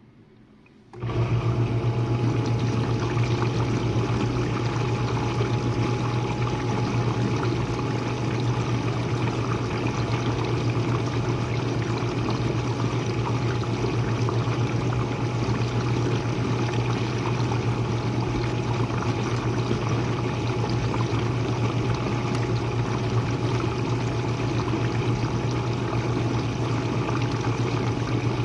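Jenn-Air dishwasher's pump coming on suddenly about a second in, then running with a steady low hum under the hiss and splash of water spraying inside the tub.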